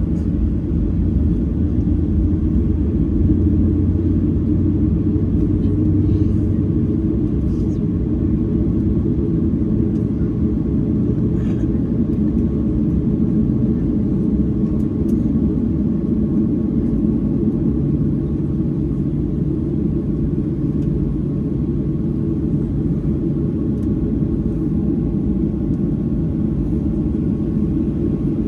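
Steady low rumble inside the cabin of a Boeing 737-800 on the ground before takeoff, with faint steady tones above it.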